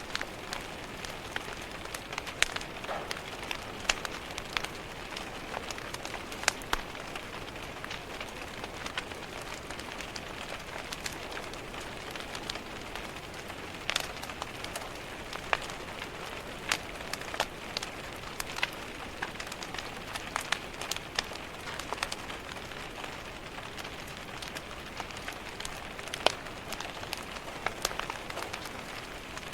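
Steady rain pattering on a window, with a wood fire crackling and giving sharp pops at irregular moments.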